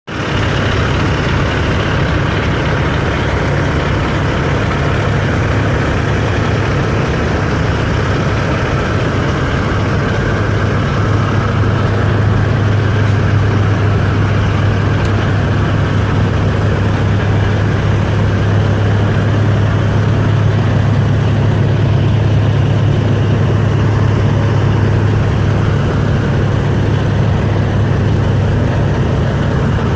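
Diesel engine of a semi truck idling steadily, a low even hum with no revving.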